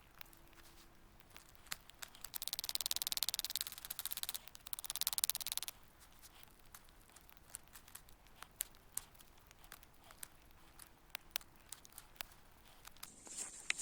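Scattered sharp crackles, with two dense stretches of tearing, crinkling rustle between about two and six seconds in.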